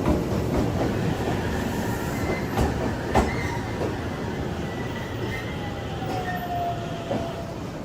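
Train running on rails: a steady rumble with several wheel clacks over rail joints, and a thin squeal that slides slowly down in pitch in the second half.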